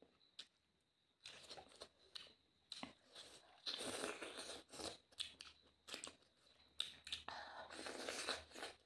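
Close-up eating sounds of a piece of chicken eaten by hand: biting, tearing at the meat and chewing in irregular bursts with small clicks. They start about a second in.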